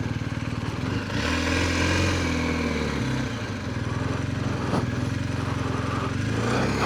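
BMW R1250GS boxer-twin engine running at low speed, then pulling away about a second in, its revs climbing and dropping back once near the middle as it shifts up, with wind rushing over the helmet microphone.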